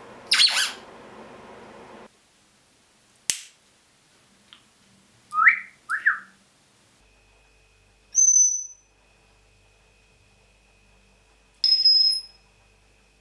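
African grey parrot making a series of short calls: a harsh squawk at the start, two quick rising whistles, then two high, piercing beep-like calls.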